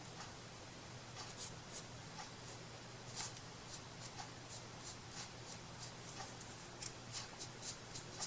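Light scratching strokes on a craft piece, coming at irregular intervals and more often near the end, over a faint steady low hum.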